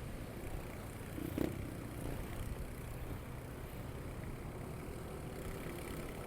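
Motorcycle engine running steadily while riding, with road noise. A short, louder sound stands out about a second and a half in.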